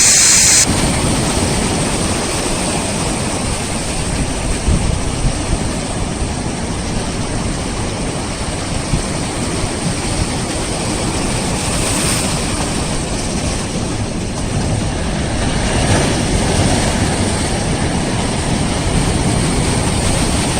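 Sea waves surging against a rocky shore, a steady rushing noise, with wind rumbling on the microphone.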